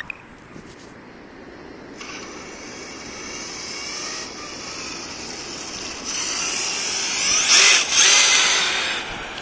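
Electric whine of an RC truck's Mamba Monster 2200kv brushless motor and drivetrain, picking up about two seconds in. The whine rises in pitch as the truck accelerates hard, loudest near the end, then eases off.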